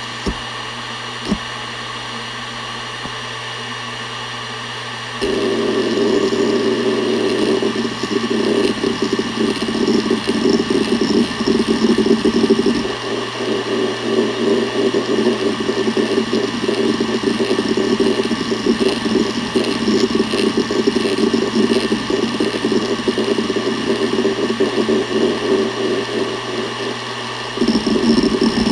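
Seagate Barracuda ES.2 ST31000340NS 7200 rpm hard drive spinning with a steady hum. From about five seconds in, its heads seek continuously in a dense, fast patter of ticks, which stops shortly before the end.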